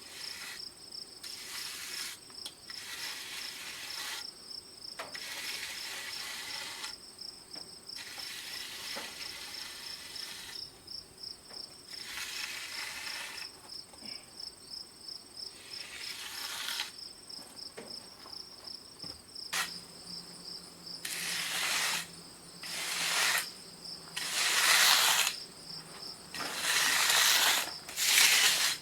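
Crickets trilling steadily, a rapid high pulsing. Over it come repeated swishing strokes about a second long, which get louder and come closer together in the last several seconds.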